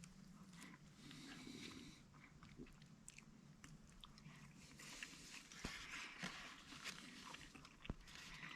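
A person chewing food, faint, with scattered small clicks.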